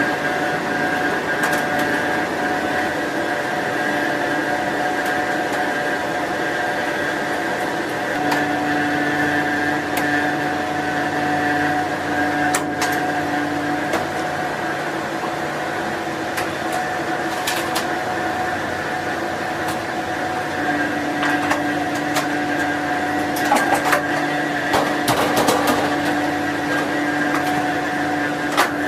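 Steady drone inside an aircraft in flight: engine and airflow noise with several steady hums. A few faint clicks break in here and there.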